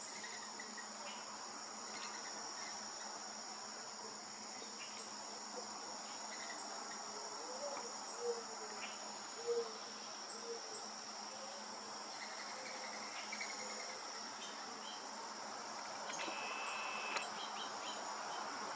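Outdoor insect chorus of crickets, trilling in a steady high-pitched drone. A few soft, low, short notes come in about halfway through.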